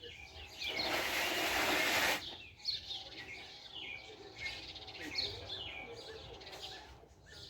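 Small birds chirping and calling repeatedly, many short sweeping chirps, with a loud rush of noise about a second in that lasts about a second and a half.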